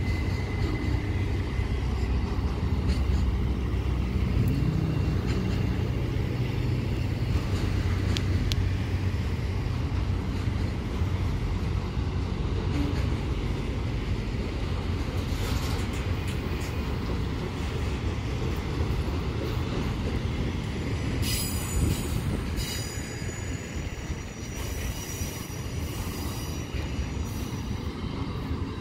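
BNSF freight train climbing slowly up the grade past the camera: a steady heavy rumble of the train, with high-pitched wheel squeal on the curve appearing in the last third.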